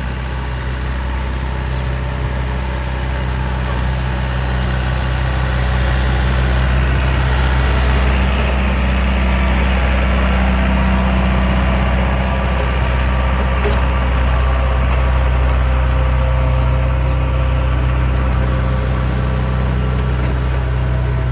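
Massey Ferguson 2630 tractor's four-cylinder diesel engine running steadily, getting a little louder over the first few seconds and then holding level.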